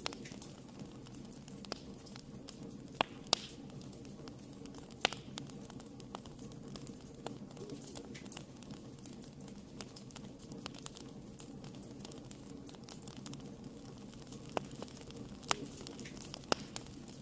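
Wood fire burning in a fireplace, a steady low hiss broken by irregular sharp crackles and pops, a few of them louder.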